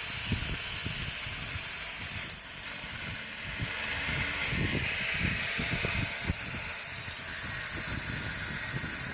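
Angle grinder cutting through a truck's leaf-spring U-bolts, a high hissing whine. Its pitch drops and the sound dips for a few seconds in the middle, then it climbs back up.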